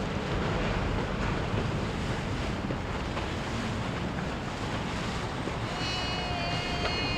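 Wind buffeting the microphone over a steady rumble of boat engines and churning water. A set of steady high tones starts near the end.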